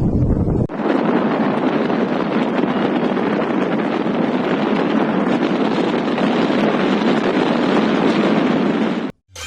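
Storm wind rumbling and buffeting the microphone, then, after an abrupt cut, a steady loud rushing of cyclone wind and heavy rain that cuts off suddenly near the end.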